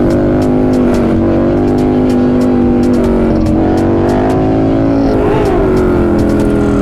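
Motorcycle engine running steadily at a near-constant pitch under the rider. The pitch dips briefly and comes back up about five seconds in.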